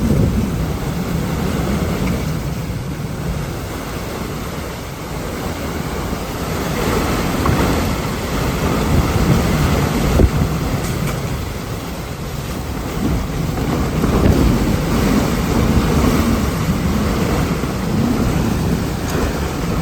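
Hurricane eyewall wind and driving rain, a loud steady noise that swells and eases in gusts, with one sharp knock about ten seconds in.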